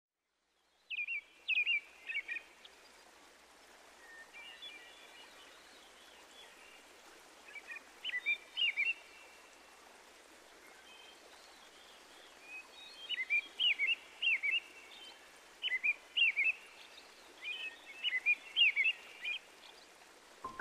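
A small bird chirping in short bursts of several quick chirps, a burst every few seconds, over a faint steady hiss.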